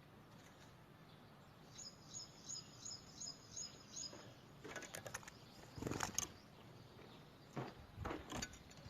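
A small bird chirping faintly, a quick run of short high chirps at about three a second, followed by a few soft knocks and rustles.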